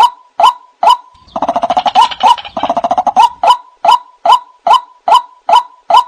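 White-breasted waterhen calling: a steady run of loud, repeated two-part calls, about two to three a second. About a second in, a faster, harsher chatter of notes joins for about two seconds, then the even series carries on. This is a lure recording for calling other waterhens in.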